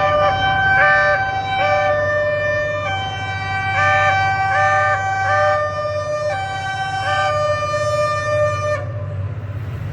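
Diesel locomotive's multi-tone air horn sounded in a rapid, tune-like pattern of changing chords over the steady rumble of the engine. The horn cuts off near the end, leaving the noise of the passing train.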